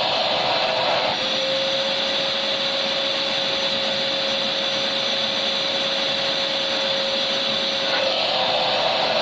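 Electric vacuum cleaner running steadily: a continuous rush of air with a steady motor hum, its tone shifting slightly about a second in and again near the end.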